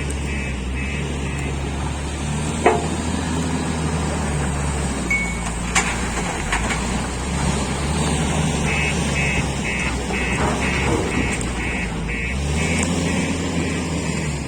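Heavy diesel vehicle engine running steadily at a coal loading site, with stretches of rapid, evenly spaced electronic beeping and a couple of sharp knocks.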